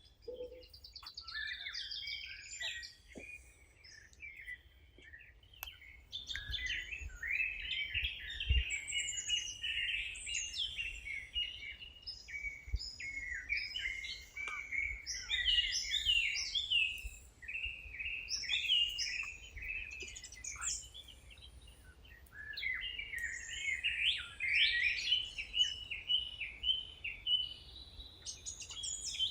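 Several wild birds singing at once, a busy chorus of quick overlapping chirps and trills. The song thins out at the start and grows fuller after about six seconds, over a faint low rumble.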